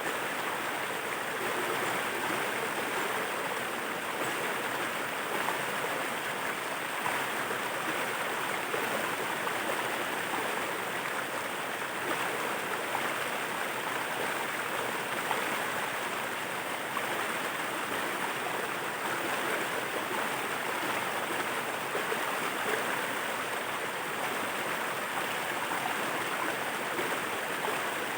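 Steady rush of a waterfall and its stream, an even wash of water noise without breaks.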